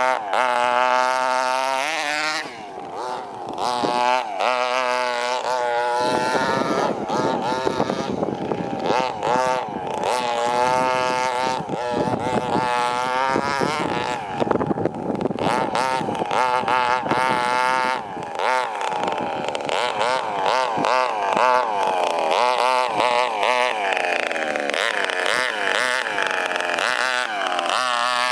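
Zenoah 23cc single-cylinder two-stroke petrol engine of an FG radio-controlled car running and being revved up and down over and over, its pitch rising and falling with the throttle.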